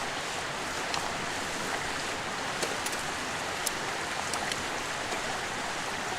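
Steady rushing of a nearby mountain stream, with a few faint small ticks scattered through it.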